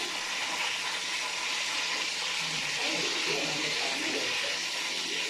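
Chicken cooking in a pan, giving a steady sizzling hiss, with faint voices in the background partway through.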